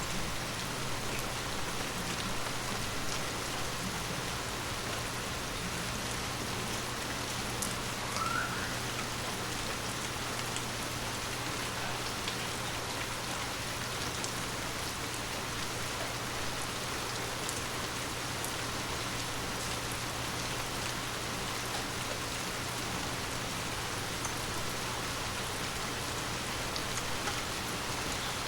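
Steady, gentle rain falling on forest leaves, an even patter throughout. One short rising chirp about eight seconds in.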